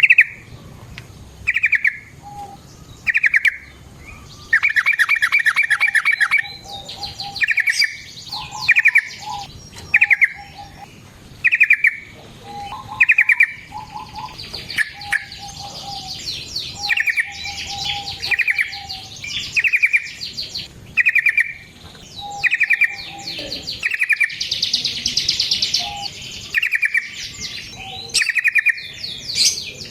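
Yellow-vented bulbul (trucukan) singing: short bubbly phrases repeated about every second and a half, with a few longer, harsher chattering stretches.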